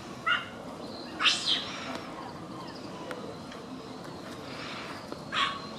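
A few short, high-pitched bird calls over steady background noise: one just after the start, a louder double call about a second in, and another near the end.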